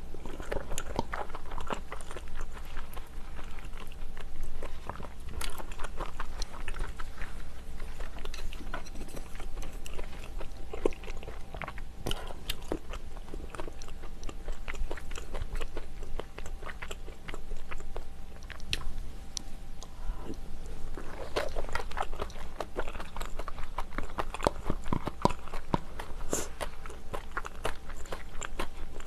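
Close-miked eating sounds: chewing and wet mouth noises of a person eating spicy seafood and monkfish soup with rice, with many small irregular clicks.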